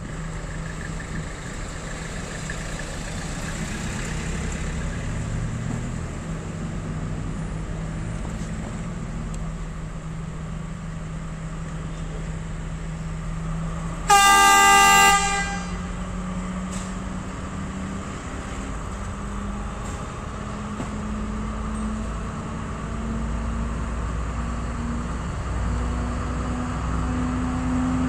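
Class S12 diesel multiple unit's engine running as the train accelerates, its note holding steady and then climbing in steps in the second half. About halfway through it sounds its horn once, a loud blast lasting a little over a second.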